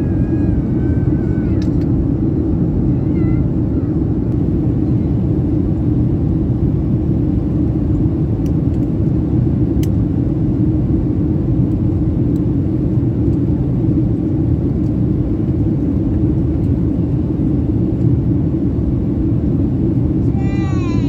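Steady cabin noise of a Boeing 737-800 in flight, a constant rumble of its engines and the airflow heard from inside the passenger cabin.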